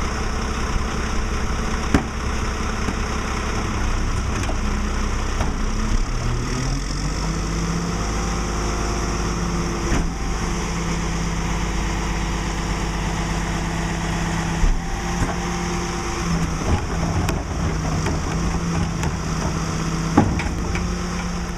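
Mack LE garbage truck's diesel engine idling, then speeding up about six seconds in and holding a steady higher speed, with a few sharp knocks along the way.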